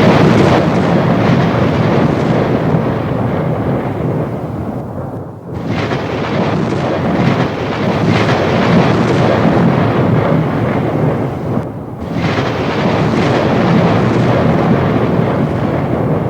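Loud, continuous rolling thunder rumbling through a thunderstorm, easing briefly about five seconds in and again near twelve seconds before swelling back.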